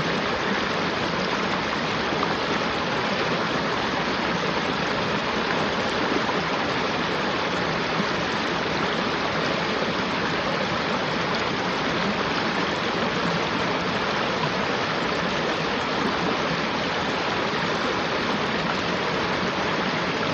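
River water flowing steadily: a constant, even rush of running water.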